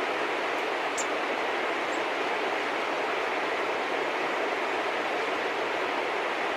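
Steady, even rushing noise throughout, with a short high bird chirp about a second in and a fainter one near two seconds.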